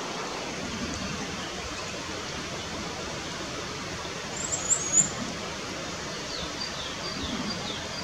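Birds calling over a steady background hiss. A few sharp high chirps come about halfway, the loudest sounds. Near the end comes a quick series of about six short down-slurred whistled notes on nearly the same pitch.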